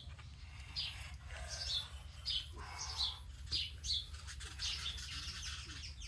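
Small birds chirping: a run of short, quick notes falling in pitch, repeating about twice a second, over a steady low hum.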